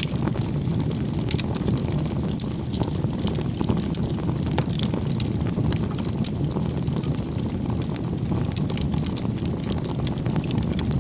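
Campfire burning: a steady low rush of flames with frequent small, sharp crackles and pops from the wood.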